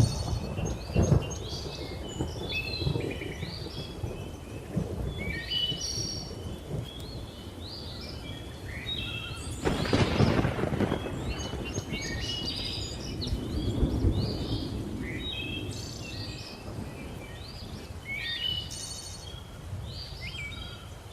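Thunder rumbling throughout, with a loud crack about ten seconds in, under a steady chorus of birds chirping and whistling.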